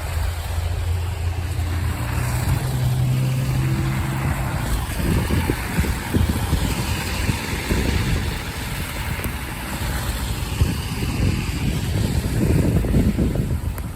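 A motor vehicle's engine running nearby, a steady low hum that steps up in pitch about two seconds in, giving way after about five seconds to gusty wind rumbling on the microphone.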